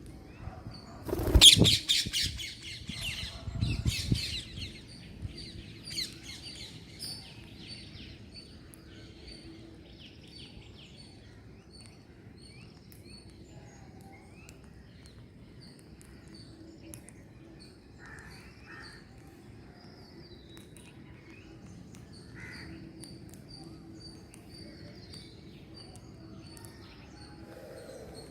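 Green parrots calling: a loud harsh squawking burst about a second in and another shortly after, then many quieter short chirps.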